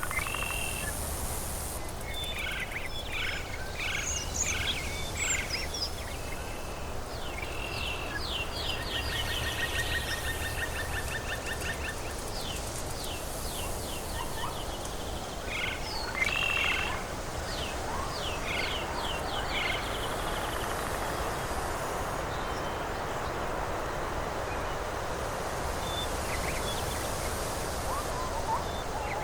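Tropical forest ambience: birds calling over an even background hiss, with repeated short calls and quick chattering trills through the first two-thirds that thin out in the last third.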